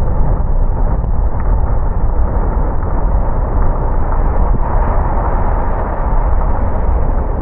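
Steady low rumble of a car driving on a wet road: tyre, road and engine noise with no breaks or single events.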